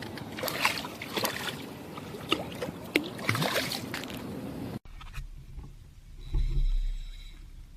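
Water splashing and sloshing around a fishing kayak, with sharp clicks and knocks. About five seconds in, it cuts abruptly to a quieter stretch with a low rumble that swells and fades.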